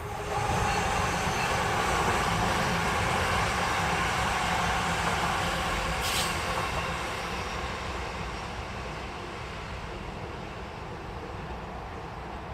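A train running past on the tracks, a loud rumbling rush that comes in suddenly and gradually fades over the second half, with a brief high hiss about six seconds in.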